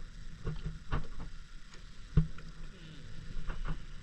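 Boat underway: a steady low rumble with scattered sharp knocks, the loudest about two seconds in.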